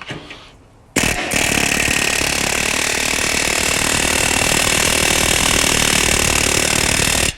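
Power tool fitted with a bit starting about a second in and running steadily at speed with a constant high whine, then stopping just before the end.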